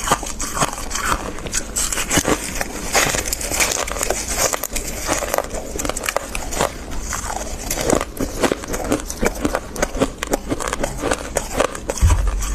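Close-up crunching and chewing of dry, crispy freezer frost: a dense run of irregular crisp crackles throughout. A brief low thump comes just before the end.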